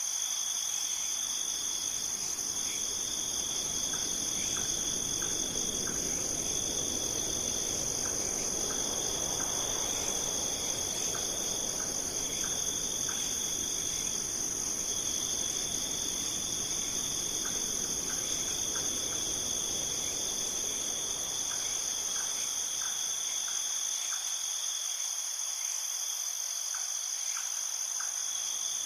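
Insects trilling in chorus: one steady high-pitched trill, and a lower one that starts and stops every second or two. Faint short chirps and a soft wash lie beneath; the wash swells in the middle and dies away near the end.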